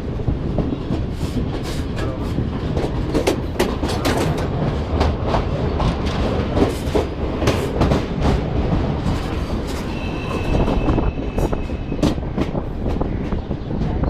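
Suburban local train running, its wheels clattering over rail joints with many sharp clicks over a steady low rumble. A thin high tone comes in for about two seconds near the end.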